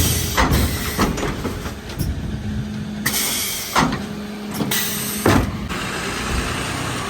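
Mercedes Econic refuse truck at work: several short bursts of air hiss and sharp clunks over a steady hum that starts about two seconds in and stops after a loud clunk near the five-second mark.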